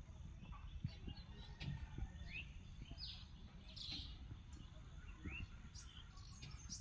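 Birds chirping in short scattered calls over a low, steady rumble.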